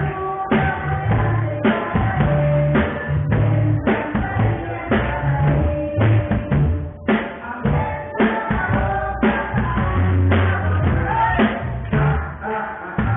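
An orchestra playing live, with a drum kit keeping a steady beat under a bass line and melody.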